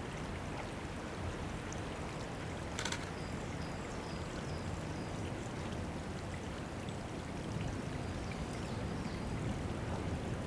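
Steady trickling of water at a woodland drinking pool, with faint high bird chirps and a brief rapid burst of clicks about three seconds in.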